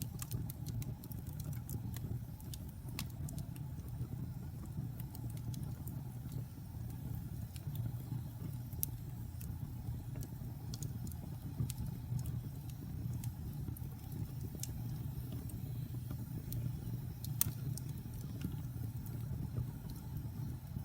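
Wood fire burning in a fireplace: a steady low rumble with scattered sharp crackles and pops, one louder pop late on.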